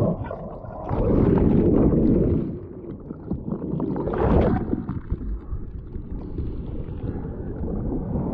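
Rough water rushing and churning around a kayak, with wind buffeting the microphone; the loudest surge comes about a second in and a shorter one about four seconds in.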